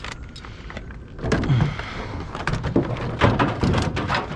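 Clattering knocks and thumps of objects being handled and set down, getting heavier about a second in.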